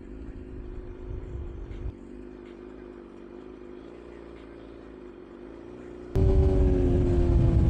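Motorcycle engine idling steadily. About six seconds in the sound abruptly turns much louder with a heavy low rumble, and the engine note then slowly falls in pitch.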